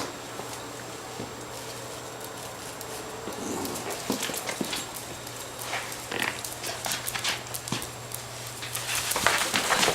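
A parrot's short, harsh squawks, coming more often and louder toward the end, over a steady low hum.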